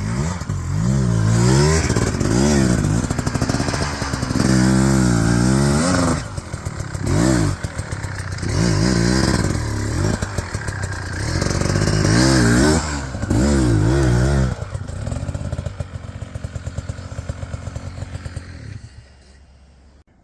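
Dirt bike engine being ridden hard, revving up and down over and over as the rider works the throttle. About fourteen seconds in it drops to a lower, steadier running, then fades away near the end.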